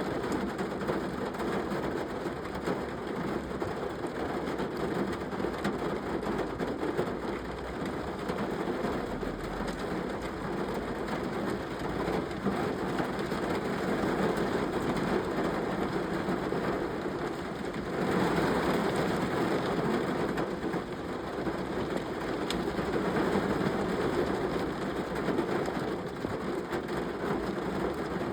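Steady rain falling, which grows heavier about two thirds of the way in.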